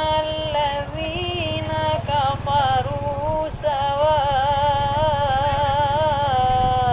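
Melodic Quran recitation: one voice drawing out long held notes with wavering, ornamented turns, over a low steady rumble.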